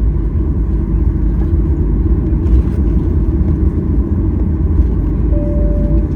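Steady low rumble of a Boeing 737-800's engines and airframe heard inside the passenger cabin. Near the end a single steady tone comes in.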